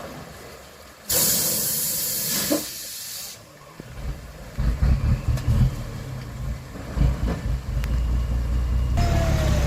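A sudden loud hiss lasting about two seconds, then a heavy truck's diesel engine running with uneven low surges.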